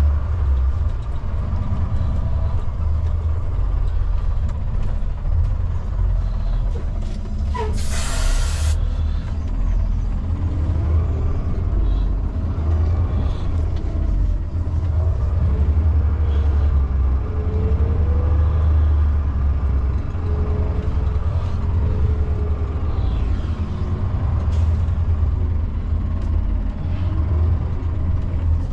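Semi-truck diesel engine running with a steady low rumble while the tractor-trailer is backed in. About eight seconds in there is a short, sharp hiss of air released by the truck's air brakes.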